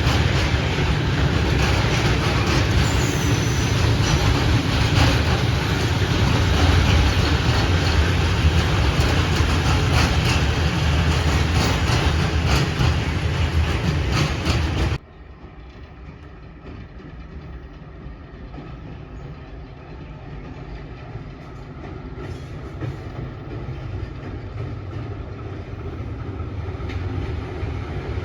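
A train passing close by, its wheels clattering over the rail joints, cut off abruptly about halfway through. Then a quieter, low rumble of an approaching train that grows steadily louder.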